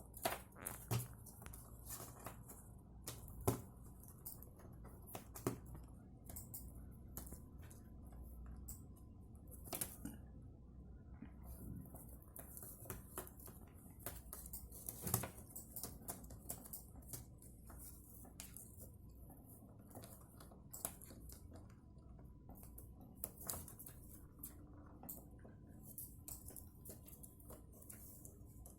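Irregular light clicks and taps, with a few louder knocks scattered through, in a small room.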